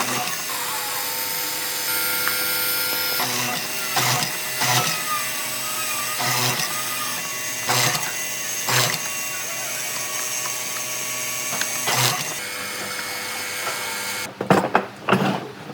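A power tool running steadily, with several sharp knocks over it, shutting off about fourteen seconds in; a few louder knocks follow.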